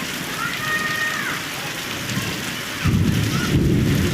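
Heavy rain falling steadily, with a loud low thunder rumble breaking in suddenly about three seconds in and carrying on.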